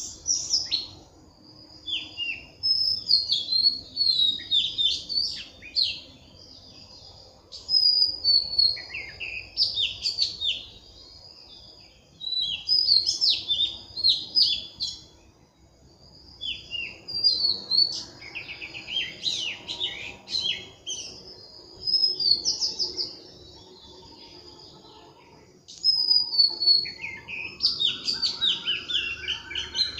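Birds chirping and singing in phrases of a few seconds with short pauses between them, with a rising run of notes near the end.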